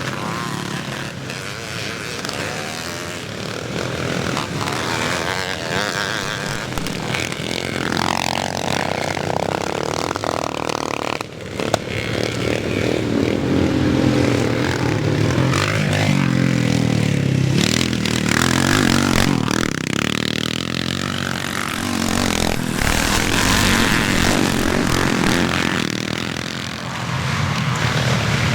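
Classic motocross bikes racing, several engines revving up and falling back in pitch as they pass and accelerate out of corners.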